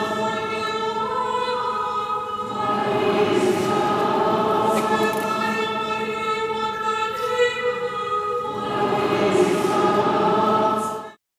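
A choir singing sustained chords whose notes change every few seconds, cut off abruptly near the end.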